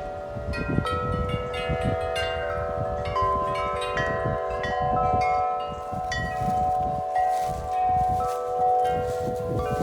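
Large tubular wind chimes ringing continuously as strong gusts swing the clapper against the tubes, with many tones struck again and again and overlapping. A low rumble of wind buffets the microphone underneath.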